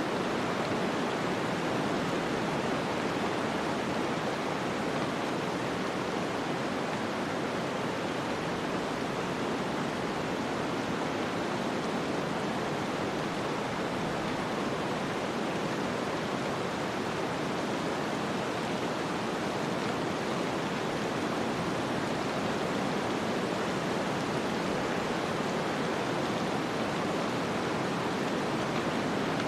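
Snowstorm ambience: a steady, even rush of wind-driven noise that does not rise or fall.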